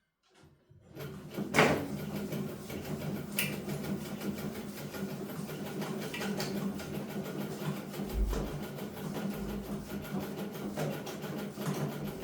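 Sewing machine starting up about a second in and then running steadily with a fast, even stitching rhythm, with a sharp knock just after it starts. The machine is stiff and sews with difficulty even after oiling.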